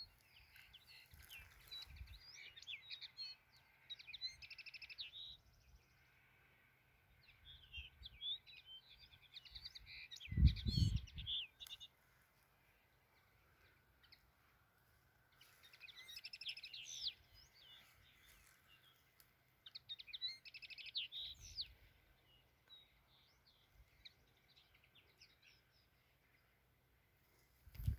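Small birds chirping and singing in several bursts of quick high notes, with gaps between them. A single dull low thump about ten seconds in is the loudest sound.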